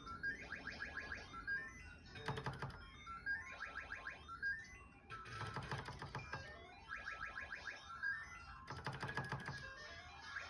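Mahjong arcade gambling machine playing its electronic game sounds: a burst of rapid clicks, then a quick rising run of beeps, repeating about every three seconds as rounds are played.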